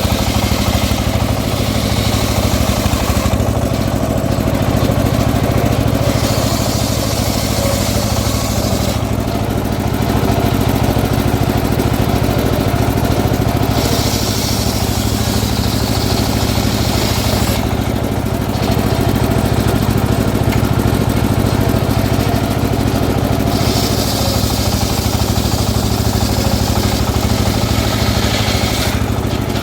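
Engine-driven homemade circular saw rig running at a steady drone while its blade rips teak. The high cutting noise rises four times, each for three to five seconds, and drops back to the running engine between cuts.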